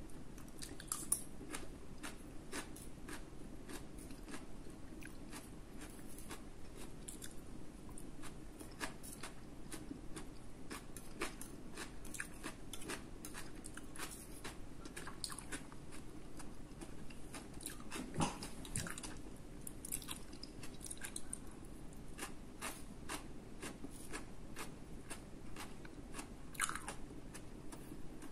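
A person chewing and biting food close to the microphone: many small irregular wet mouth clicks and crunches from a diced vegetable salad of bell pepper and corn.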